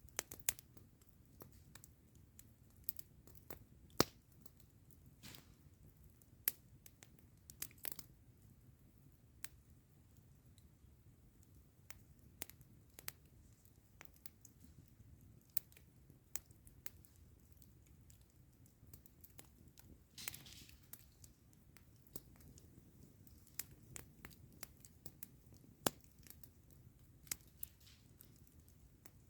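Wood campfire crackling: irregular sharp pops and snaps, with a few brief hissing spurts over a faint low steady rumble.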